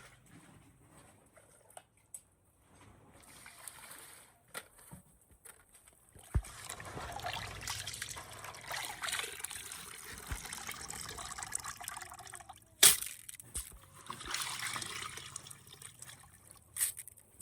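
Water trickling and splashing, starting about six seconds in and rising and falling, with a couple of sharp knocks.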